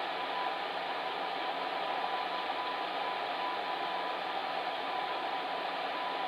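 Electric fan heater running: a steady blowing hiss with a faint steady hum.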